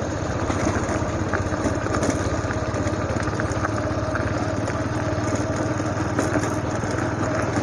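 Motorcycle engine running steadily, with an even pulse, while the bike is ridden.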